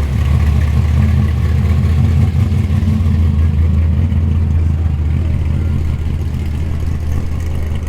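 Car engine running at low revs as the car creeps past, a loud, deep and steady sound that eases off slightly near the end.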